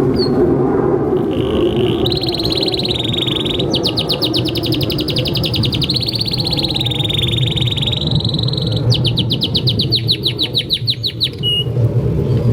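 Domestic canary singing a long unbroken song. Held buzzing rolls alternate with two stretches of rapid chopped trill notes at about ten a second, over a steady low rumble.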